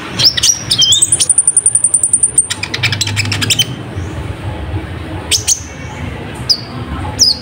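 Olive-backed sunbird song: a fast, chattering trill of high chirps with a thin, very high whistle held for about a second. After about three and a half seconds it breaks into a few separate sharp chirps.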